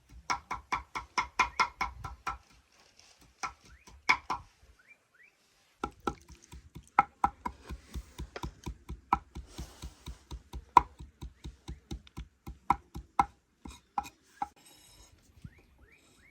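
Knife chopping food on a cutting board in quick, even strokes, about four a second, with a pause of a few seconds early on before the chopping resumes for several seconds.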